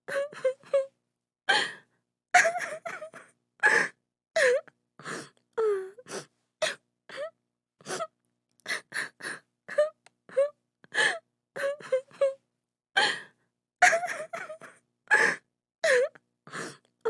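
A woman crying: sobbing in short, broken bursts with gasping breaths and wavering, falling wails.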